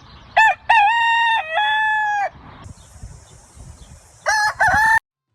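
Rooster crowing, a cock-a-doodle-doo of short notes and then long held ones. A steady high hiss follows, then a second crow begins and is cut off abruptly near the end.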